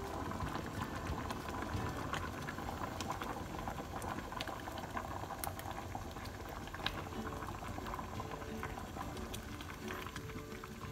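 Asam laksa broth bubbling at a boil in a stainless steel pot, a steady crackle of bubbles as a wooden spoon stirs it.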